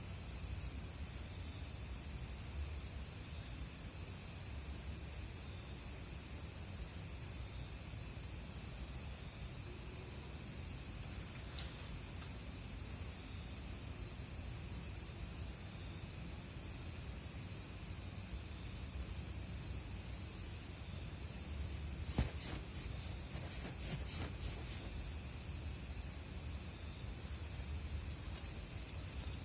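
Night insects calling: crickets keep up a steady high drone while another insect trills in short repeated bursts every second or two. A single sharp click comes about three-quarters of the way through.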